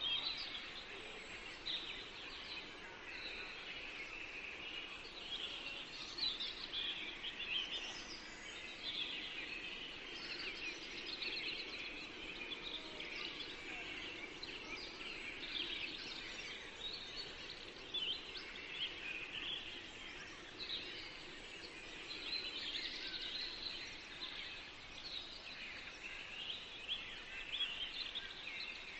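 Many small songbirds singing at once, a dense overlapping chorus of chirps and trills over a faint steady background hiss.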